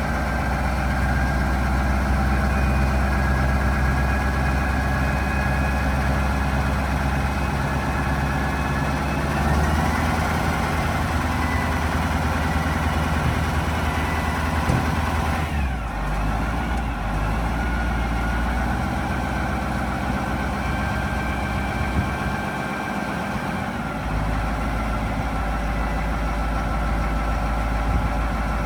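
A 1986 Ford dump truck's engine running at idle. Its speed rises slightly about ten seconds in, then drops back around sixteen seconds and settles into a steady idle.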